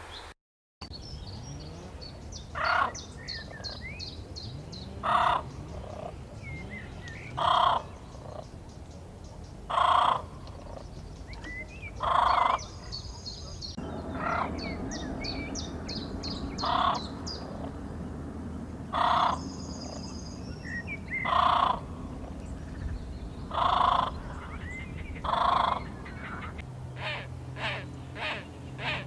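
Wild birds calling: one loud call repeated about every two and a half seconds, with quick runs of high chirps between the calls and a faster series of calls near the end.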